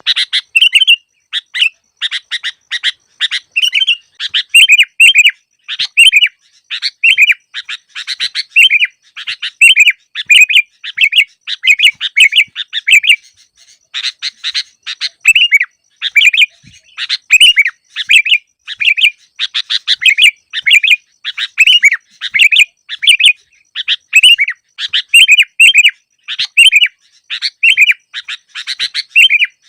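Sooty-headed bulbul (kutilang) calling: short, loud chattering phrases repeated several times a second, with brief gaps between them, as in a looped recording played to lure bulbuls.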